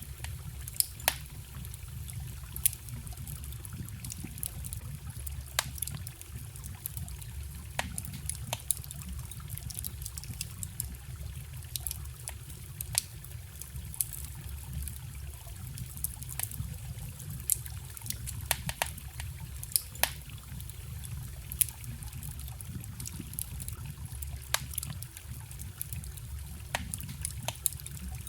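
Wood fire crackling with sharp, irregular pops over the steady trickle and rush of a small forest stream.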